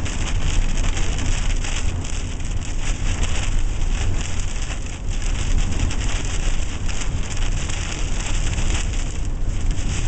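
Rain hitting a moving vehicle, with a steady low rumble of road and wind noise underneath.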